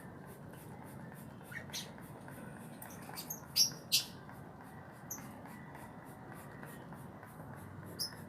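A caged cucak ijo (green leafbird) giving a few short, sharp calls, the two loudest close together near the middle, over a faint steady background hum.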